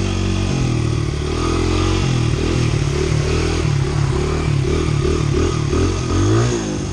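Honda CRF100 dirt bike's single-cylinder four-stroke engine pulling in first gear. Its pitch rises and falls quickly and repeatedly with the throttle from about two seconds in.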